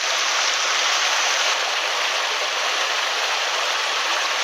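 Small mountain headwater stream running, a steady, even hiss of flowing water.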